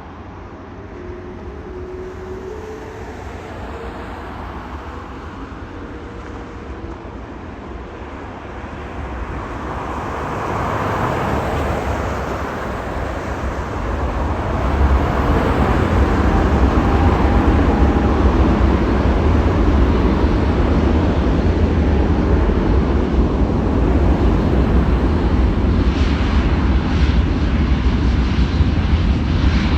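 Boeing 787-9 jet engines at takeoff power, a rumble that grows louder over the first fifteen seconds and then holds steady and loud.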